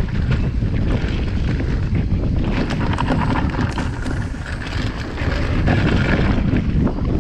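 Wind rushing over a chest-mounted camera's microphone during a fast downhill mountain bike descent, with scattered sharp clicks and rattles from the bike over the rough trail.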